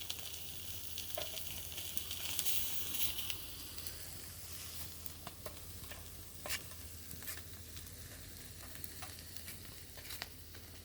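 Fish sizzling as it cooks, a steady high hiss with scattered sharp pops and crackles. The sizzle is strongest between about two and three and a half seconds in, then eases off.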